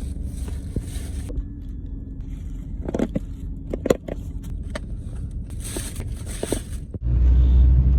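Low steady rumble of a car on the move, with scattered clicks and two spells of hiss. The sound cuts and comes back louder and deeper about seven seconds in.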